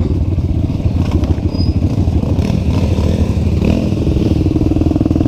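Trail motorcycle engine running with a fast, even pulse, settling into a steadier note about four seconds in.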